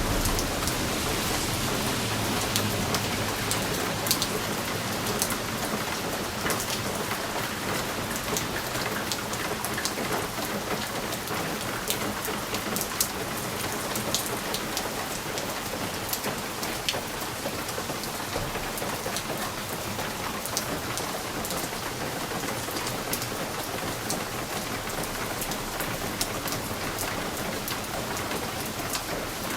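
Steady rain with many single drops ticking sharply against window glass.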